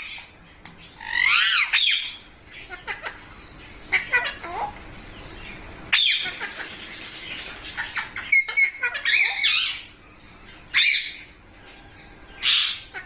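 Indian ringneck parrots giving a series of harsh squawks, separate calls every second or two with short gaps between them.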